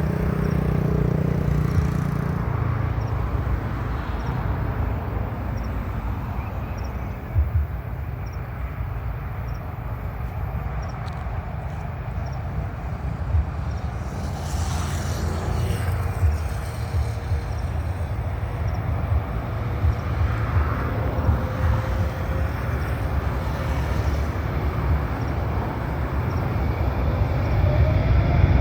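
Airbus A330-900's Rolls-Royce Trent 7000 jet engines giving a low, steady rumble that grows louder near the end.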